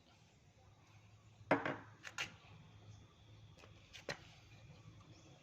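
A handful of sharp clinks and knocks from hand tools and metal parts being handled while working on a small engine, the loudest about a second and a half in, then a pair around two seconds and two more near four seconds.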